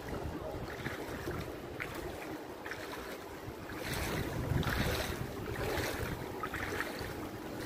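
Rushing noise of wind on the microphone mixed with moving floodwater, swelling louder about four seconds in.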